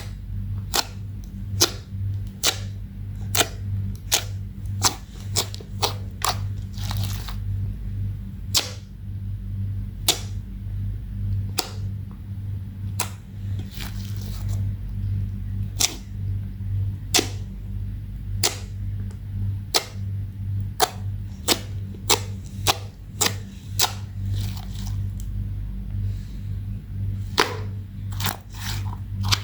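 Slime being kneaded and folded by hand, with sharp pops of trapped air about once a second over a steady low hum.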